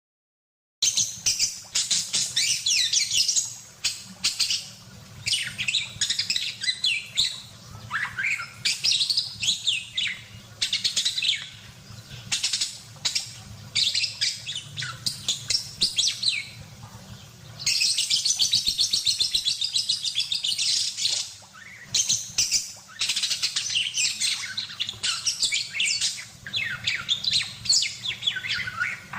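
Budgerigar singing energetically: a fast, chattering warble of rapid high chirps and gliding notes. It starts about a second in and includes one longer unbroken run about two-thirds of the way through, over a faint steady low hum.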